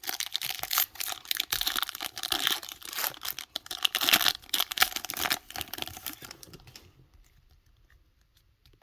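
Foil trading-card booster pack wrapper being torn open and crinkled, a dense crackling rustle with sharp snaps that stops about seven seconds in.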